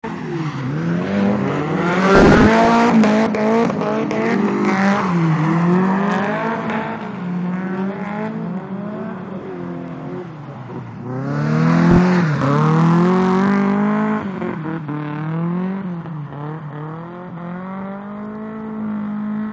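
Nissan SR20DE two-litre four-cylinder engine in a Toyota KE70 Corolla drift car, revving hard up and down again and again as it is driven on track. A hissing rush of noise comes in about two seconds in and again around eleven to thirteen seconds in.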